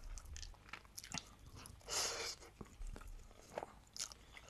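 Close-miked mouth sounds of a person chewing a bite of bread with melted cheese: soft wet clicks and smacks, with one louder burst of crunchy noise about two seconds in.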